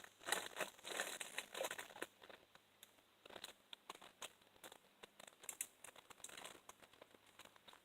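Irregular rustling and crackling, busiest in the first two seconds, then fainter scattered clicks.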